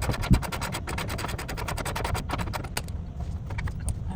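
Ratchet wrench clicking in a fast, even run of about a dozen clicks a second, with a knock just after the start; the clicking stops about three seconds in, leaving a few scattered clicks.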